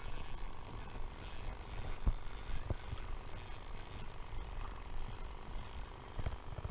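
Fishing reel ticking rapidly and steadily, with a few louder clicks, while a hooked fish is fought.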